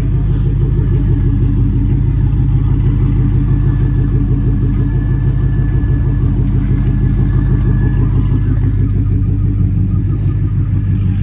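Car engine running steadily, a low even drone with no clear revving.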